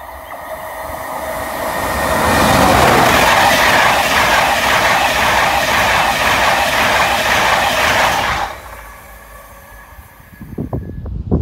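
A train passing at speed, its wheels clattering rhythmically over the rail joints, building up over the first couple of seconds and then cutting off sharply about eight seconds in. A burst of rustling, gusty noise comes near the end.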